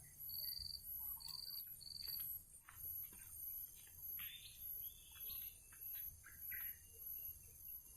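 Birds calling with short chirps and calls, led by a high, even note repeated three times in the first two seconds.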